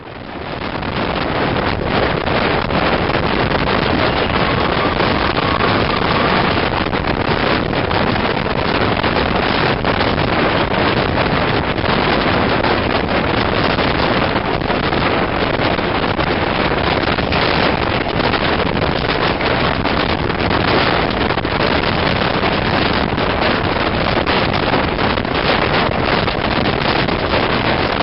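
Wind buffeting the microphone out of a carriage window of a moving steam-hauled train, mixed with the steady running noise of the coaches on the track. It fades in over the first second.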